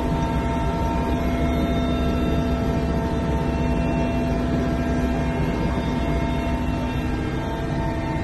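Steady engine drone holding several fixed tones over a low rushing noise, unchanging throughout.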